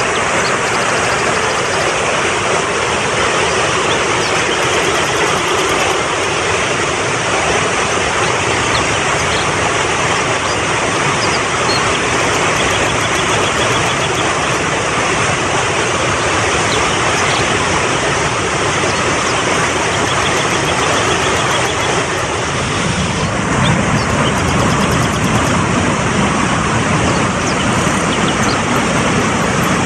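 Fast-flowing mountain stream rushing over rocks, a loud, steady wash of water noise. The low rumble of the water grows stronger about two-thirds of the way through.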